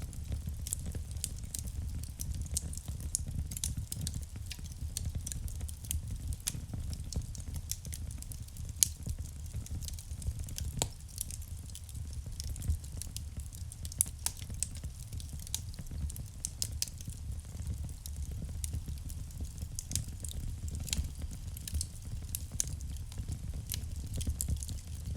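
Wood fire burning in a fireplace: a steady low rumble of the flames with irregular crackles and sharp pops from the burning logs, a few louder pops standing out.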